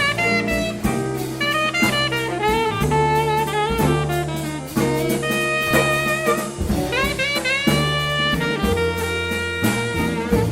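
Small jazz group playing a blues live: a horn line with bending notes over a stepping bass line, drum kit and cymbals.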